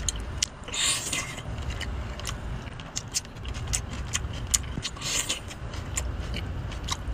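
A person chewing a mouthful of cooked octopus, with many short wet clicks and two brief hissing sounds, about a second in and about five seconds in, over a low steady rumble.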